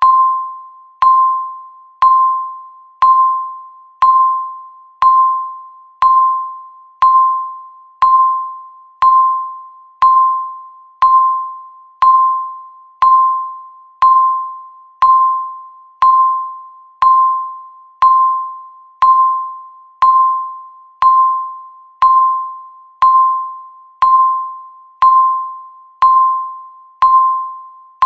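Countdown timer's electronic tick tone sounding once a second: a short, bell-like beep that fades out before the next one.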